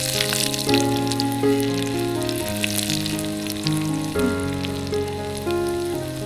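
Food frying in hot oil in a tiny pan: a steady sizzle with crackles and pops, strongest at first and easing a little later on. Background music with held chords plays underneath.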